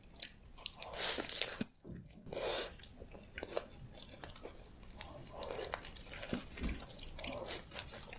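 A person chewing a grilled wrap, with lip smacks and many short mouth clicks, picked up at close range, and another bite taken near the end.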